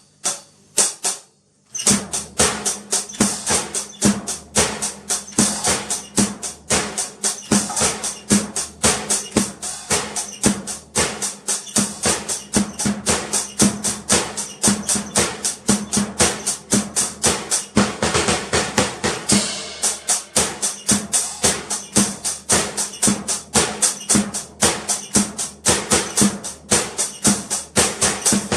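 Drum kit played solo by a beginner, with no backing music. A few separate hits come first, then about two seconds in a continuous fast, even pattern of drum and cymbal strikes starts and keeps going, with a drum's low ring under it.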